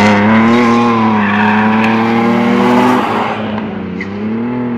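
Car engine revving hard as it drives a coned rally course, held at high revs, easing off about three seconds in, then rising and falling once more near the end.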